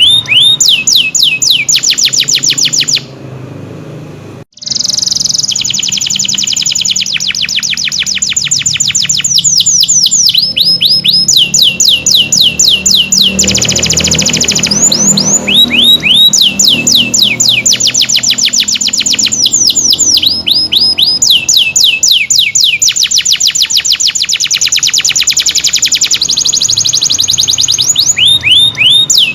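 Domestic canary singing a loud, fast song of rapid, high, falling notes repeated in long trills, switching phrase every few seconds. The song drops away briefly about three seconds in.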